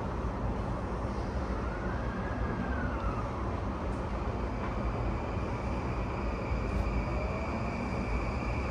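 E235-1000 series commuter train heard from inside a motor car as it starts away: a steady low rumble, a faint tone that rises and then slowly sinks, and from about halfway a steady high whine from the Mitsubishi full-SiC VVVF inverter as the train starts to move.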